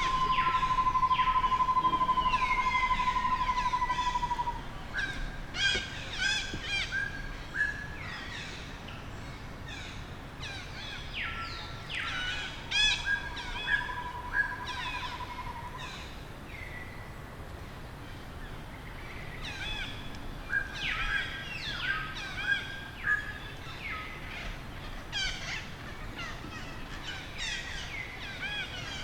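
Repeated short, high chirping and squealing animal calls, rising and falling in pitch, scattered through the whole stretch. A steady high drone is the loudest sound for about the first four seconds and comes back more quietly for a few seconds in the middle.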